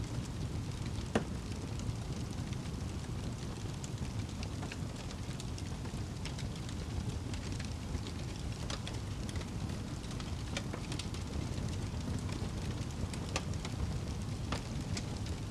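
Wood fire crackling, with scattered sharp pops over a steady low rumble; the loudest pop comes about a second in.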